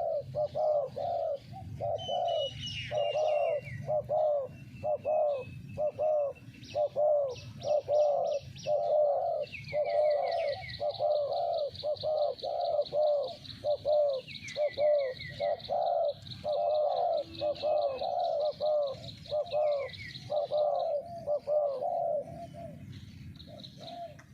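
Spotted doves cooing over and over in a dense run of low, rounded notes. Small birds chirp and trill higher up, with one long, fast trill through the middle; the cooing thins out near the end.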